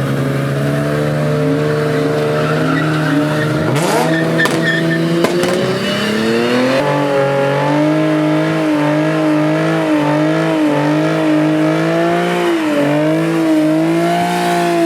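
Car engine held at high revs with tyres squealing as the car drifts, the revs wavering up and down and stepping higher about seven seconds in.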